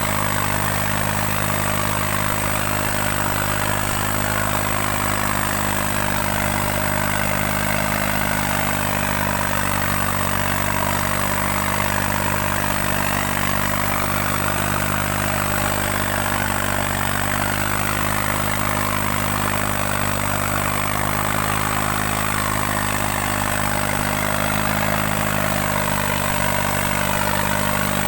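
New Holland 3630 tractor's three-cylinder diesel engine running steadily at constant speed, pulling two harrows.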